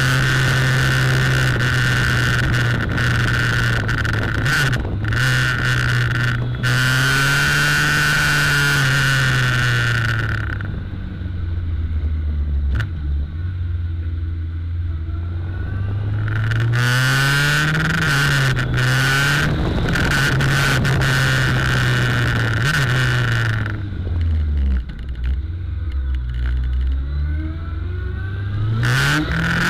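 Suzuki GSX1400's inline-four engine, recorded through the fuel tank, rising and falling in pitch as the throttle opens and closes; the revs drop away twice and climb back. A buzzing rattle from the camera's batteries, shaken by vibration through the tank, sits over the engine while it pulls hard and fades when the revs drop.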